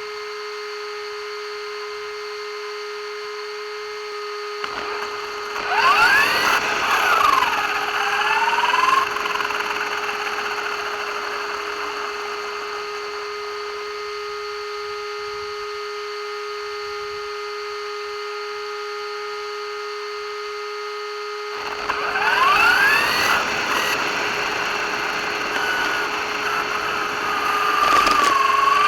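RC car motor whining, rising and falling in pitch as it speeds up twice, about five seconds in and again near the end, over a steady electrical hum in between.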